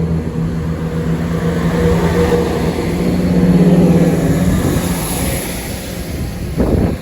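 Class 171 Turbostar diesel multiple unit's underfloor diesel engines running, with a steady engine note that gets louder about halfway through. A brief thump comes near the end.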